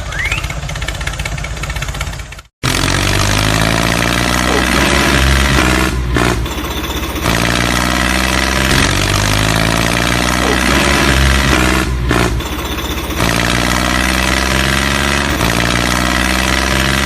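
Small engine running steadily at an even pitch. It cuts off suddenly about two and a half seconds in and comes straight back.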